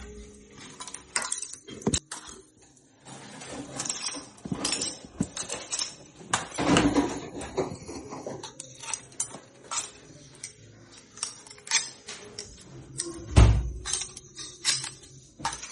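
Irregular clicks, scrapes and clatters in a metal pot as live river crabs scrabble about and are grabbed at with a tool, with a couple of heavier knocks, the loudest about thirteen seconds in.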